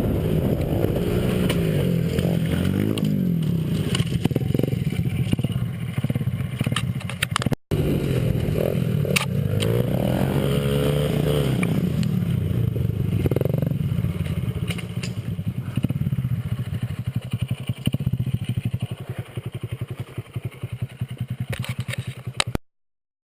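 Small Honda 50 cc single-cylinder four-stroke pit bike engine being ridden hard, revving up and down again and again as it shifts through the gears. It cuts out briefly about seven and a half seconds in, and runs a little lower and choppier toward the end.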